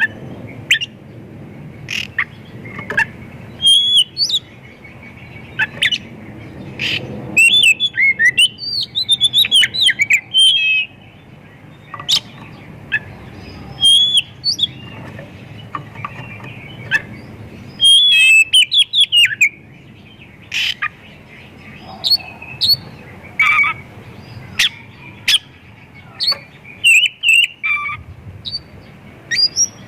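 Oriental magpie-robin singing a loud, varied song. It goes in quick bursts of high whistles, warbles and sharp chips, with short pauses between them, and is full of phrases mimicked from other birds.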